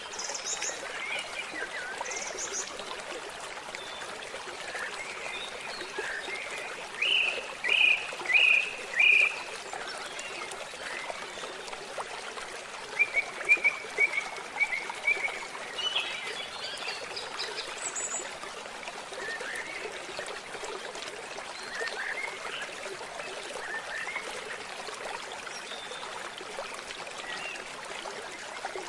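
Forest ambience: a steady trickle of running water with several birds calling over it. The loudest calls are a run of four short rising notes about seven seconds in and a quick series of short notes near the middle.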